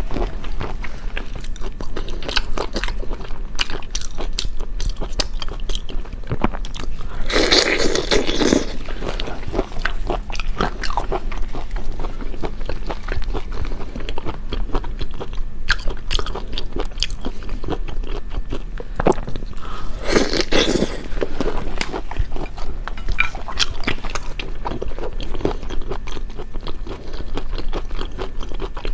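Eating sounds: a steady run of crunching bites and chewing of seafood, with two louder crunching stretches, one about eight seconds in and one about twenty seconds in.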